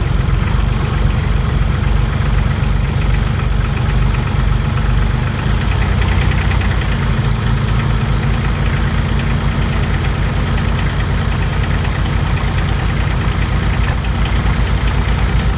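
Kioti CK2620 tractor's small three-cylinder diesel idling just after a cold start in about 13°F, with a clattering diesel knock; its note changes about five seconds in and then stays steady.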